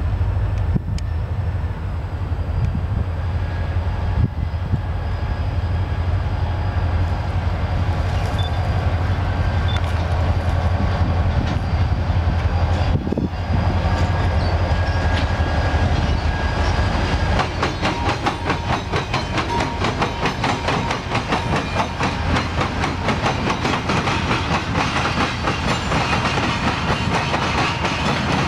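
A passing train: a diesel locomotive's engine drone at first, then, a little past halfway, the drone gives way to rapid, continuous clickety-clack of the cars' wheels over the track.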